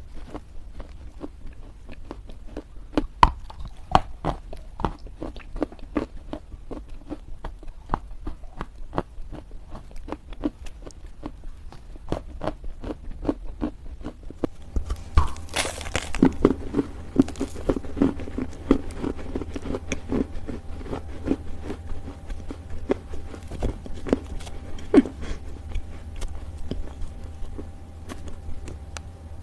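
Pieces of dried Chinese loess earth being bitten and chewed: a steady run of small, sharp crunches. About halfway through a louder crunch comes, and the crunching turns denser after it, with a faint steady hum behind it.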